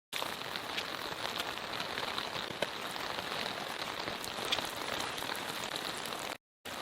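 Steady rain falling, with scattered single drops hitting close by; the sound drops out briefly near the end.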